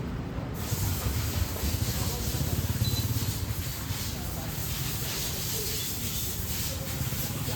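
City street traffic with a steady low rumble. A steady hiss starts suddenly about half a second in and carries on throughout.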